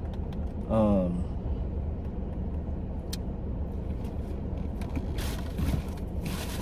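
Steady low hum of the car running, heard from inside the cabin. A brief voice sound comes about a second in, a single sharp click near the middle, and rustling handling noise toward the end as the LED light wiring is fiddled with.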